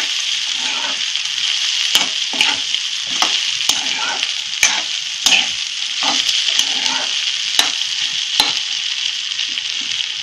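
Shengoli pieces, horse-gram-flour dough, frying in hot oil in a kadhai over a high flame: a steady sizzle. Repeated sharp clicks and scrapes come from the spatula striking the pan as the pieces are stirred.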